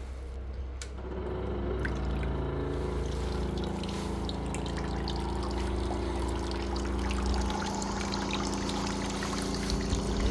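Shoe washing machine running: a steady motor hum that builds up over the first couple of seconds, with water pouring and splashing inside it.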